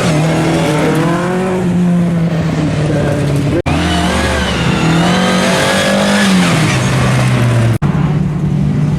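Rally car engine revving hard, its note repeatedly rising and falling as it is driven through the gears, with the sound cutting out for an instant twice.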